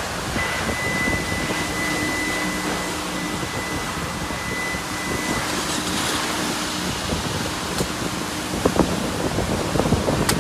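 Wind buffeting the microphone, a steady rushing noise. A thin high steady tone sounds for about five seconds from near the start, a lower hum runs under most of it, and there are two short knocks near the end.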